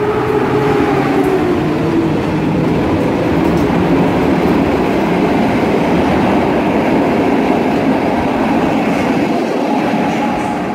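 Coaches of a departing passenger train rolling past on the platform track, steel wheels running on the rails, with a falling whine in the first couple of seconds. The sound holds steady until the last coach has gone by near the end.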